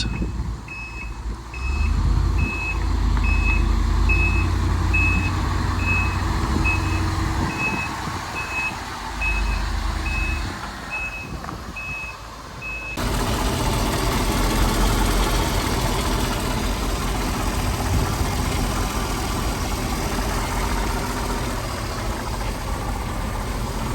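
1994 GMC C7 Topkick water truck's backup alarm beeping steadily, about one and a half beeps a second, over the running engine as the truck reverses. About halfway through the beeping stops abruptly, leaving the truck's engine running steadily at idle.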